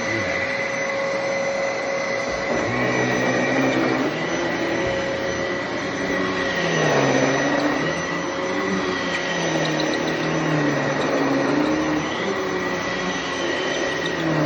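Bissell Heavy Duty (93Z6) bagless upright vacuum running steadily. Under a constant high whine, its lower hum wavers up and down in pitch every second or two.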